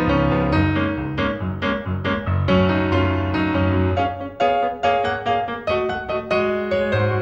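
Solo piano accompaniment for a silent film, with rapid struck notes over held bass notes.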